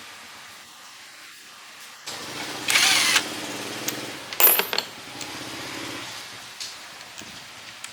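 A small motor starts about two seconds in and runs steadily, with a loud burst of hissing noise about a second later and a sharp, brief burst a little after the middle.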